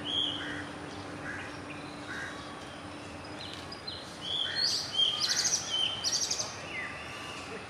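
Small birds chirping and whistling over a steady outdoor background hiss, with a faint low hum in the first few seconds. The chirping grows denser and louder from about halfway through.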